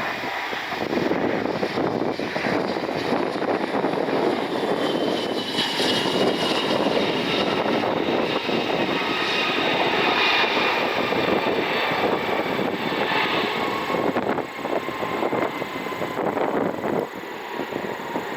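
Aircraft engine noise from a plane passing close by: a steady, loud rush, with a high whine that glides slightly downward through the middle.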